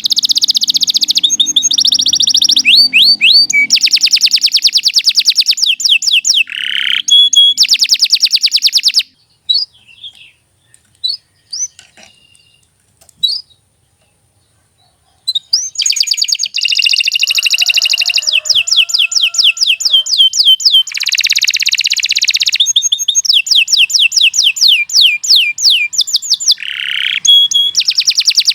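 Canary singing long, rapid trills and rolling phrases. About nine seconds in it breaks off for roughly six seconds, leaving only a few faint chirps, then starts singing again.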